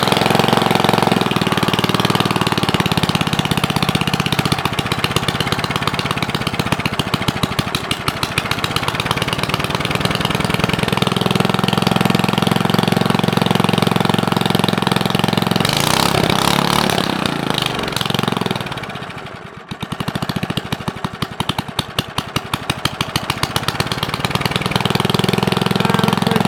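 Small single-cylinder Briggs & Stratton engine running with no muffler, exhausting through a short half-inch street elbow, a loud, rapid, even firing. About two-thirds of the way through, its level drops away briefly, then comes back up.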